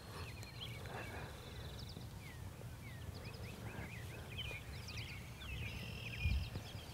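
Several wild birds chirping and singing in short rising and falling calls, over a steady low rumble.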